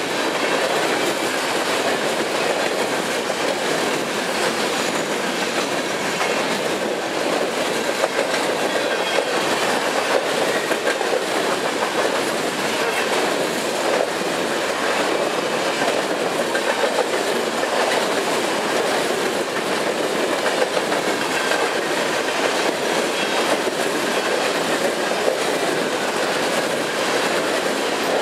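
Freight cars (tank cars, then covered grain hoppers) rolling past close by: a steady rumble and rattle of steel wheels on rail, with occasional sharper clacks as the wheels cross rail joints.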